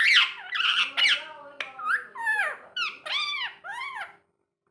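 Pet rose-ringed (green ringneck) parakeet vocalizing in a quick run of about ten short, high, squeaky calls that rise and fall in pitch. The calls break off shortly before the end.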